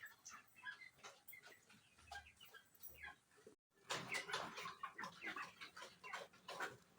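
A flock of four-week-old broiler chickens calling: many short, overlapping cheeps and clucks. The sound cuts out briefly a little past halfway and comes back louder.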